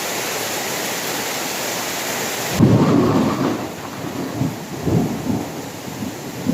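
Steady heavy rain hiss that cuts abruptly, about two and a half seconds in, to a thunderstorm: deep rolling thunder rumbling over rain, loudest at first and then coming in uneven swells.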